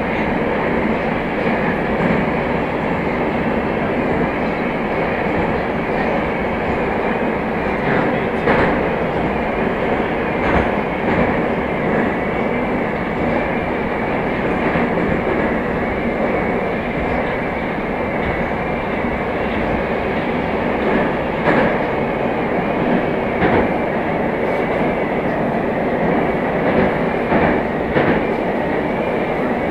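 Moscow Metro train running at speed between stations: a steady rumble of wheels and traction motors, with a few sharp clicks from the rails.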